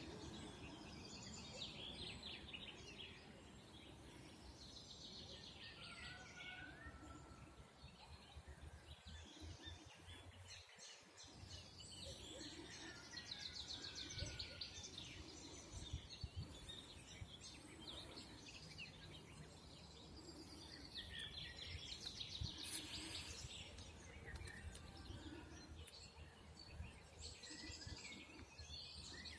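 Several songbirds singing in a birch grove, with overlapping faint trills and chirps that come and go. A steady low background rumble runs underneath.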